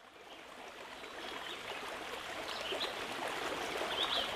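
Flowing water like a stream, fading in over the first second or two, with a few short high chirps.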